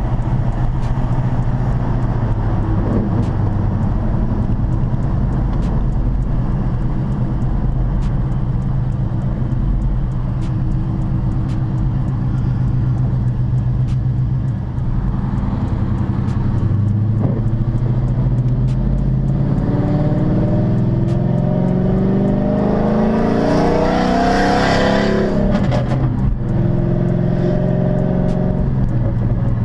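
A 2006 Dodge Charger's 5.7-litre Hemi V8 running with its exhaust valves opened, heard from inside the car while cruising. About twenty seconds in, the engine note rises steadily under acceleration, then drops back sharply near the end.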